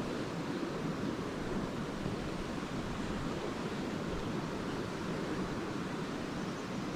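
Lake waves washing steadily onto the shore, a continuous surf wash without separate crashes.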